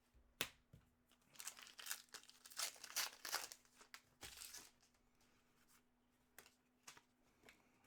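Trading cards and pack wrappers being handled: soft rustling and crinkling, busiest for a few seconds in the first half, with a few light clicks.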